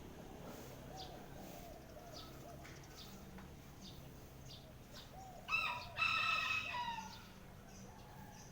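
A rooster crows once, about five and a half seconds in: a short first note, then a longer call of about a second that falls in pitch at the end. Faint chirps of small birds repeat throughout.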